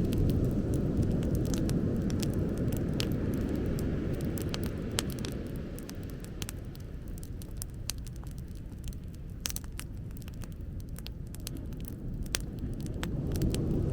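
Beach bonfire crackling, with frequent sharp pops and snaps, over a loud low rumbling noise that eases in the middle and swells again near the end.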